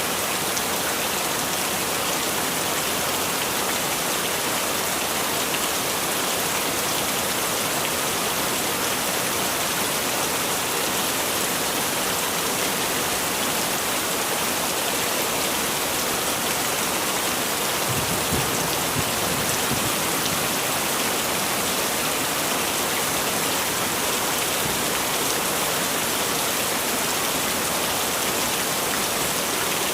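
Heavy rain falling steadily, a dense even hiss of countless drops. About two-thirds of the way through, a brief low rumble rises under it for a couple of seconds.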